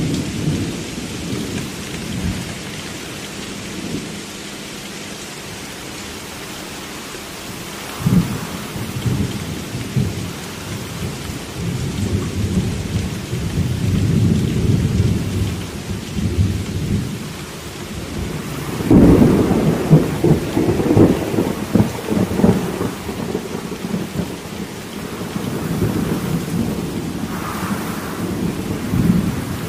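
Thunderstorm: steady rain with rolling thunder. A sudden crack of thunder comes about eight seconds in, and the loudest, longest rumble begins about two-thirds of the way through.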